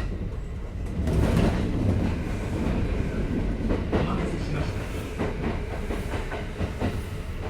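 Kintetsu 5800 series electric train running, heard from inside the car: a steady rumble of wheels on rail with repeated clacks over rail joints. It gets louder about a second in.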